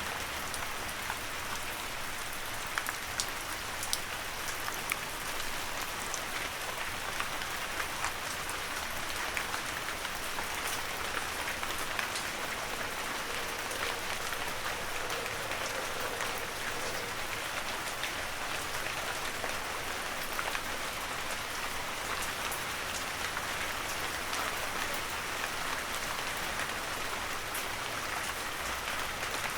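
Heavy rain falling steadily, a dense hiss of drops with many small sharp drop ticks scattered through it.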